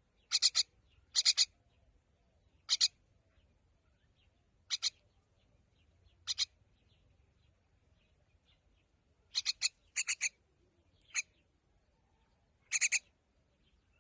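A bird giving short, harsh calls at irregular intervals, about nine in all, several coming in quick pairs or triples.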